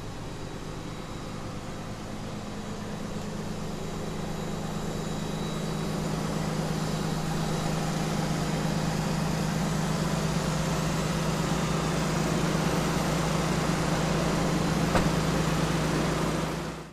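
Schwarze M6 Avalanche street sweeper running with a steady engine hum that grows louder over the first several seconds, with a single sharp click near the end before the sound cuts off suddenly.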